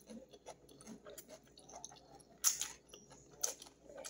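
A person eating spaghetti and salad with the fingers: soft wet chewing and mouth clicks, with two louder wet mouth sounds about two and a half and three and a half seconds in.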